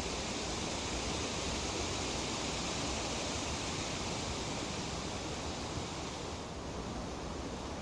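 Breeze rustling through tree leaves, a steady even hiss that softens slightly about two-thirds of the way through.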